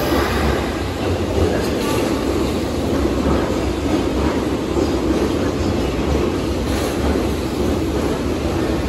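Steady hum and low rumble of an electric train standing at an underground station platform, its onboard equipment running while it waits to depart.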